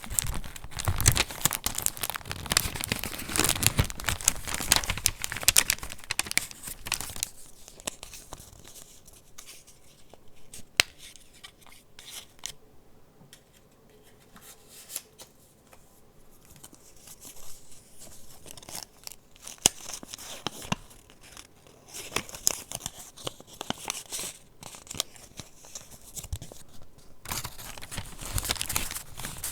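Paper rustling and crinkling as the mixed-paper pages of a handmade junk journal are turned and handled. Dense crackling at the start and again near the end, with a quieter middle stretch of scattered light clicks.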